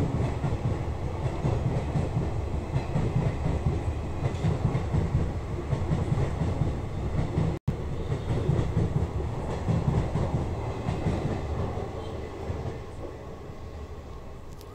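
A train passing on the nearby railway tracks: a steady low rumble that fades away over the last few seconds, with a brief cut-out about halfway.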